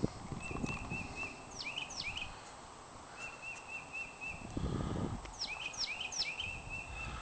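A songbird singing. Each phrase is a quick run of short repeated notes followed by a few steep down-slurred whistles, and it sings twice. Low rustling thuds come about four to five seconds in.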